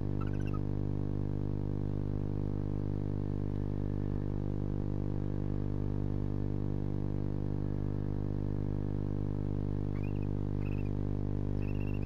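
Steady electrical hum, with a few faint, short twittering chirps from the barn owl pair just after the start and again near the end.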